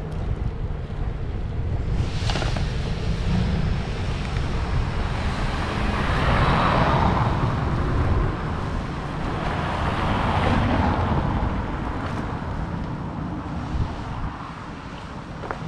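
Wind buffeting the microphone over a rushing outdoor background that swells twice, about halfway through and again a few seconds later.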